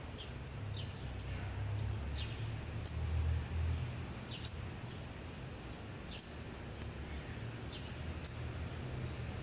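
Young bird chirping: five sharp, high chirps, each a quick downward sweep, spaced about one and a half to two seconds apart.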